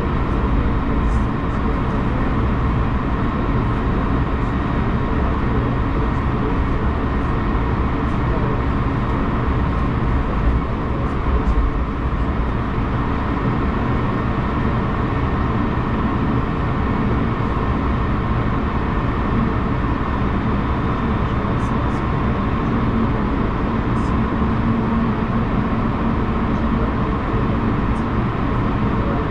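Steady interior noise of a SWISS Airbus A220-100 on the ground before take-off: a constant low rumble with a faint steady whine, the engines and air systems running at low power.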